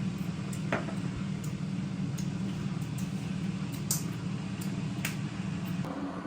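A steady low hum, like a kitchen appliance running, with scattered light clicks and clinks; the hum cuts off near the end.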